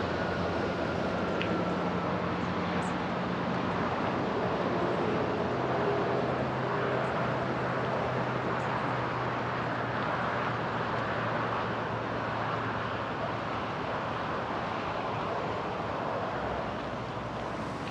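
Distant road traffic: a steady rush of passing cars with a low engine hum, swelling slightly midway.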